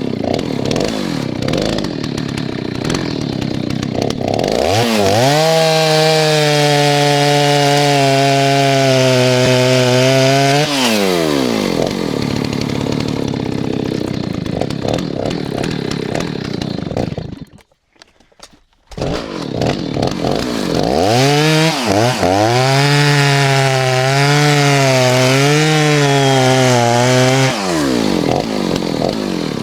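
Stihl 039 chainsaw revving up and cutting through hard firewood twice, with a quieter idle between cuts. In the first cut the engine holds a steady high pitch; in the second it wavers up and down as it loads in the wood. The sound drops out briefly near the middle.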